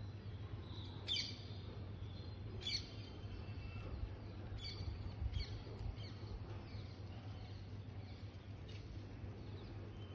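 Birds chirping: a string of short, high chirps, the loudest in the first half, over a steady low background rumble.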